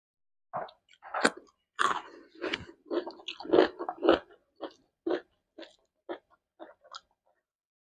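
Close-miked chewing of crunchy food: a run of irregular crisp crunches, loudest and most frequent in the first four seconds, then thinning out and fading.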